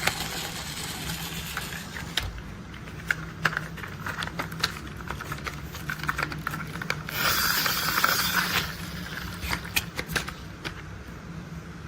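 Plastic toy construction vehicles being handled: a run of irregular clicks and clatters, with a short rushing burst about seven seconds in, over a faint steady hum.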